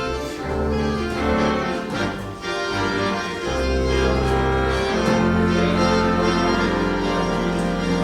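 Organ playing full held chords over deep bass notes, the chords changing a few times.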